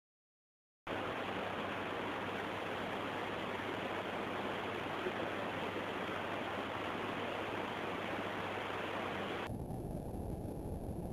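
Heavy rain falling in a steady hiss, starting abruptly about a second in. Near the end it changes suddenly to a deeper rumbling noise.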